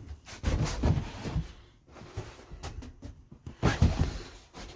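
Rubbing and knocking of the caravan's seat cushions and boards being handled, in two bursts: one about half a second in and one near four seconds in.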